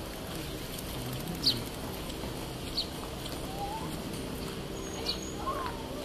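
Small birds giving a few short, sharp, high chirps a second or two apart over steady background noise.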